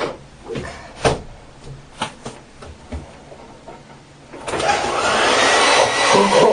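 A series of light knocks and clicks of things being handled, then about four and a half seconds in a handheld hair dryer switches on and blows steadily.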